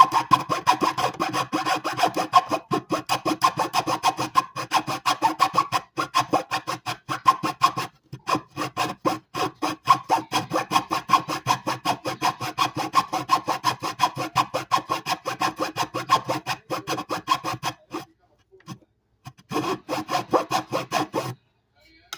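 Quick, even back-and-forth strokes of a hand tool cutting into wood, about six a second, with two short breaks. The strokes stop about 18 seconds in and come back for a short run near the end.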